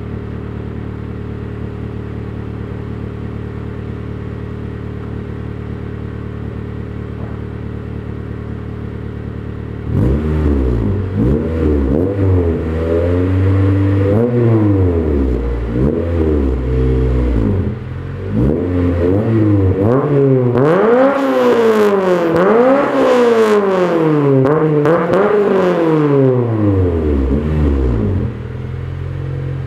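2006 Acura RSX's K20A3 four-cylinder engine breathing through an SSR race header, 90 mm exhaust and a Toyota Supra muffler with no resonator. It idles steadily for about ten seconds, then is revved up and down many times, the pitch rising and falling with each rev and reaching higher revs in the second half, before settling back to idle near the end.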